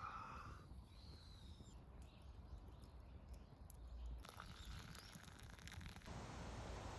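Near silence: faint background noise, with a faint low hum.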